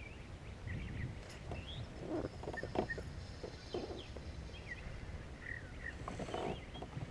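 Small birds chirping in short, quick calls over a low wind rumble, with a few soft knocks and rustles about halfway through and again near the end.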